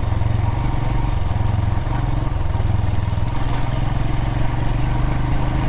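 Adventure motorcycle engine running at a steady speed while riding a dirt and gravel road.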